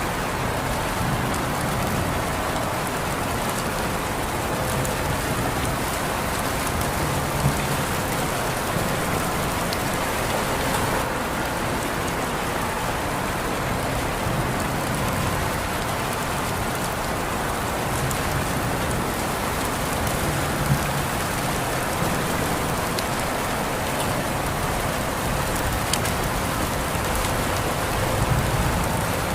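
Steady rain falling, with a few sharper drip ticks standing out now and then.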